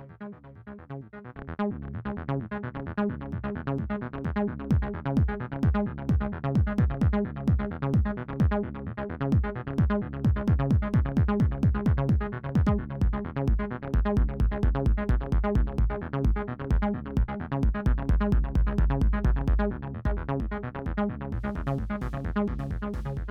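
Electronic jam from a Roland T-8 beat machine: a steady, evenly repeating drum-machine beat with a looping synth bass line. The beat builds up over the first couple of seconds, and a much heavier low kick comes in about halfway through.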